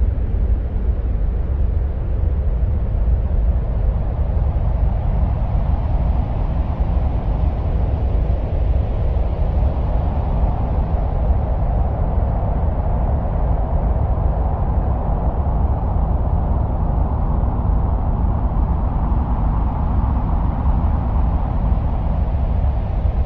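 Steady wind-like rushing noise presented as the sound of Mars, with a deep rumble underneath. A higher rushing band swells about a third of the way in and eases off near the end.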